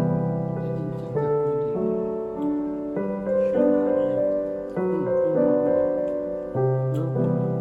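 Background piano music, a gentle melody with notes changing about every half second.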